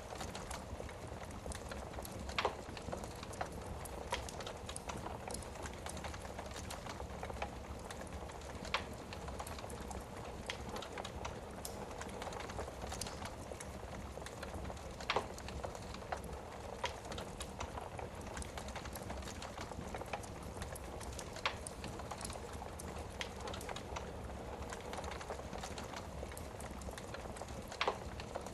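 Wood fire burning in a fireplace: a steady hiss with frequent small crackles and four louder pops spread through it.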